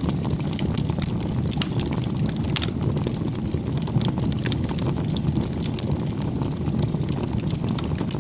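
Wood fire burning: a steady low rush of flames with frequent sharp crackles and pops of burning wood.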